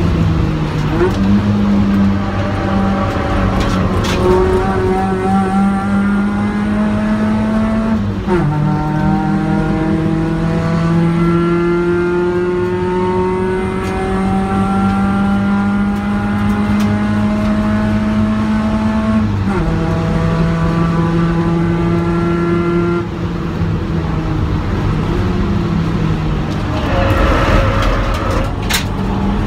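Ford Focus engine heard from inside the cabin, pulling hard with its note climbing slowly. The pitch drops sharply at two gear changes, about eight seconds in and again about two-thirds of the way through. Near the end the engine eases off under a rush of road and wind noise.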